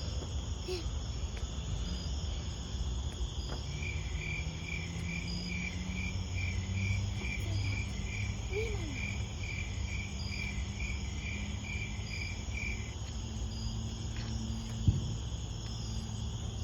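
Crickets and other night insects chirping steadily, with a regular pulsed chirp of about two a second joining from about four seconds in until about thirteen seconds, over a low steady hum. A single sharp knock near the end.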